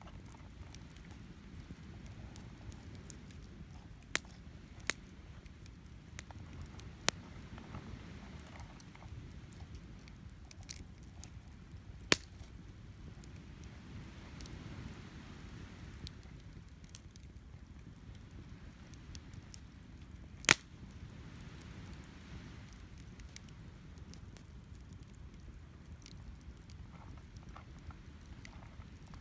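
Wood campfire of cedar and oak burning, giving sharp single pops every few seconds with fainter crackles between, the loudest pop about two-thirds of the way through. Underneath runs a steady low rumble of sea waves and wind.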